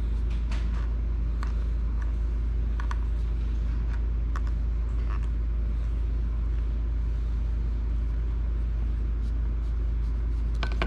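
Steady low rumble, with a few faint small clicks in the first half as a small screwdriver works a screw out of a Nintendo Switch's back shell.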